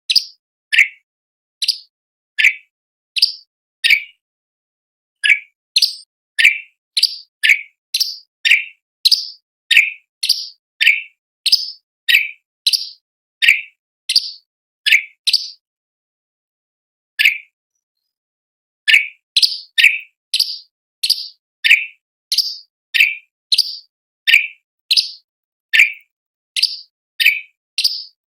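Orange-bellied leafbird (cucak cungkok) song: a long series of sharp chirps, each sliding down in pitch, about two a second, with two short breaks.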